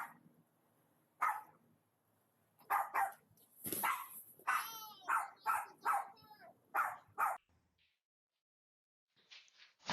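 Dogs barking at a delivery person: about ten sharp barks and one wavering yelp, at irregular gaps, stopping about three quarters of the way through.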